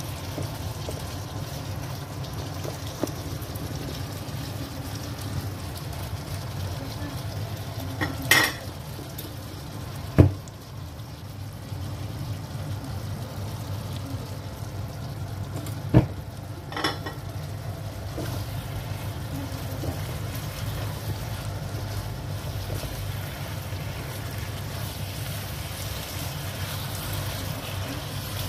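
Chicken strips and peppers sizzling as they simmer in a thickened, sticky sauce in a wok, over a steady low hum. Four sharp knocks from the spatula striking the pan come around the middle.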